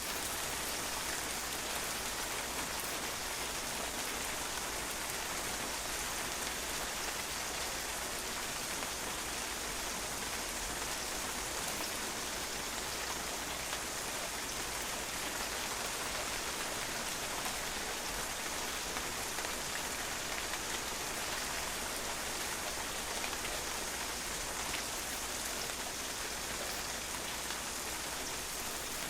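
Steady rain falling and drops pattering on a patio surface, an even hiss with fine drop impacts throughout.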